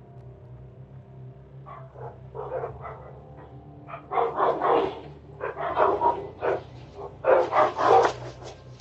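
A dog barking repeatedly. The barks start about two seconds in and come in quick runs that grow louder towards the end, over a steady low hum.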